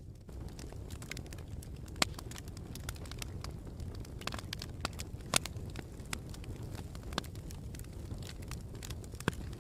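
Campfire burning with a steady low rumble and irregular crackles and pops from the burning wood, two sharper pops standing out about two and five seconds in.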